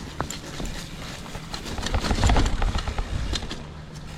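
Mountain bike riding over a rough, rocky trail: a steady clatter of knocks and rattles from the bike, with a low rumble that swells to its loudest about two seconds in.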